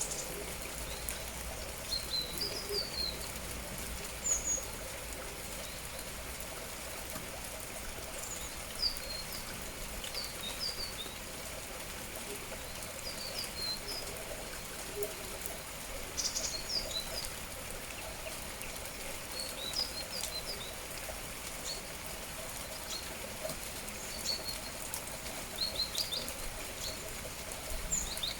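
Small birds chirping in short, scattered high calls, a few chirps every couple of seconds, over the steady hiss of falling rain.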